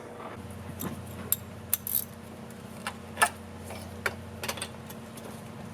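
Metal hand tools clinking and tapping against metal parts: a string of irregular sharp clicks over a steady low hum.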